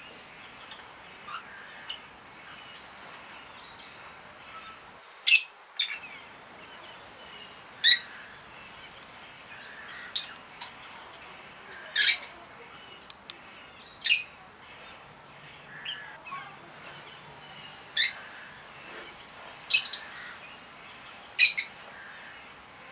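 Songbirds chirping: one bird gives a loud, short, sharp call about every two to four seconds, about seven times, over fainter twittering and chirps from other birds.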